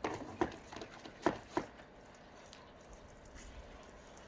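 Four short, sharp knocks in the first second and a half, the loudest about a second in, then only low background noise.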